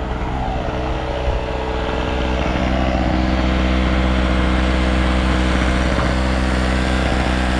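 TOGO Power GG1000 generator's small two-stroke engine running steadily, getting a little louder about two seconds in and then holding an even speed.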